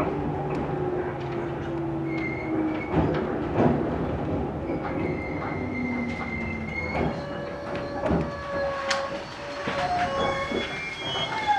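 Aizu Railway 6050 series electric train creeping slowly to a stop at a station. A low hum falls in pitch and fades over the first few seconds, then long, steady high-pitched squeals from the wheels and brakes come in, with scattered clicks and knocks over the running rumble.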